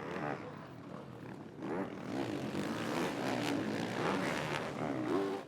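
Several MXGP motocross bikes running hard, their engine notes rising and falling as the riders work the throttle. The bikes get louder from about two seconds in.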